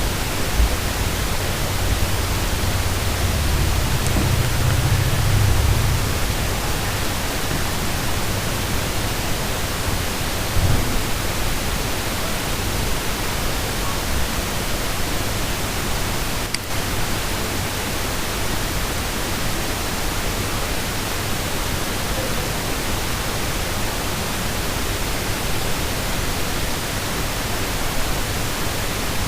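Steady hiss from the recording microphone's background noise, with a brief low rumble about four to six seconds in and a low bump about ten seconds in.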